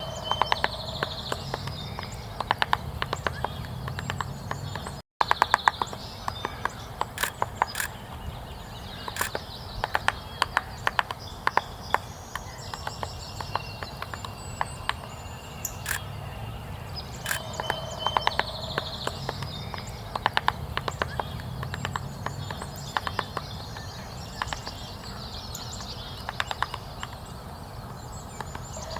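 Hairy woodpecker pecking and chiselling at bark to dig out insect grubs: short runs of quick, sharp taps, separated by pauses.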